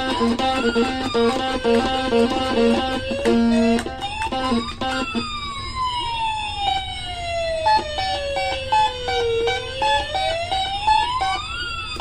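Electronic toy sounds from a homemade noise-maker pedal box played through an amp. Quick stepped beeping notes run for the first four or five seconds, then a siren-like tone slowly sweeps down, rises again near the end and starts falling, with several sweeps overlapping.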